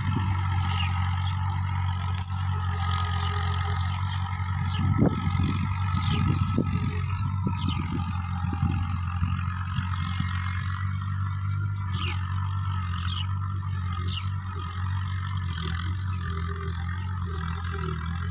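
Case JX55T tractor engine running steadily, with a burst of clattering and knocking starting about five seconds in and lasting a few seconds.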